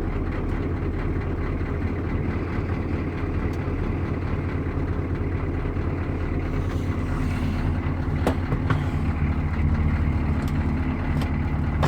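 GM 6.2L Detroit naturally aspirated V8 diesel idling steadily, less than a minute after a cold start. A few light clicks sound in the second half.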